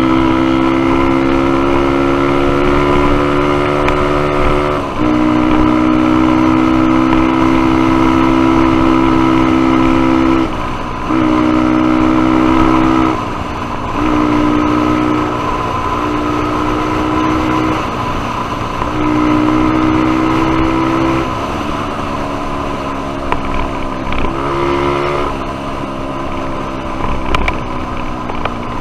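Small single-cylinder four-stroke dirt bike engine, a Suzuki DR-Z125, running at steady revs under way; the engine note breaks off and picks up again several times, at slightly different pitches.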